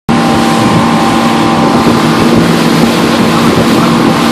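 Motorboat underway: a steady engine drone under a loud rush of wind and water.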